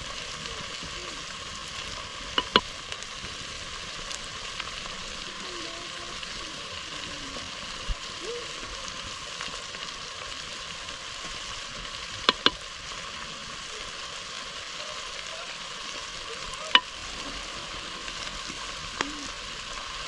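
Beef fry sizzling steadily in a pan over a wood fire, with a few sharp clinks of a utensil against the pan as it is stirred: a pair about two seconds in, another pair about twelve seconds in, and two single ones near the end.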